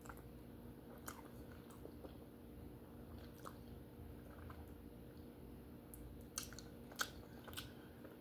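Close-miked chewing of baked duck head: quiet mouth clicks and biting, with a few sharper crunchy clicks near the end.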